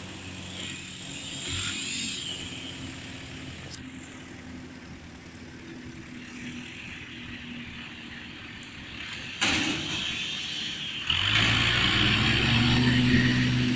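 Chainsaw engine running at a low steady speed, with a sharp click about four seconds in, then revved up and running loudly from about eleven seconds in.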